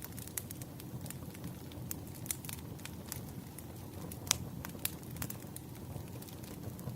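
Wood fire crackling: a steady low rumble of burning logs with irregular sharp pops and snaps, one louder snap a little past four seconds in.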